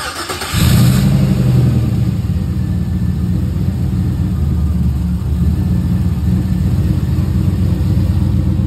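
Turbocharged GM LS truck V8 starting up: it catches about half a second in and settles into a steady, loud idle.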